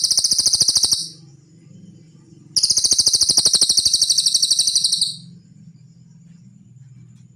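Cililin songbird singing: two rapid, high trills of quickly repeated notes. The first ends about a second in; the second starts near the middle and lasts about two and a half seconds.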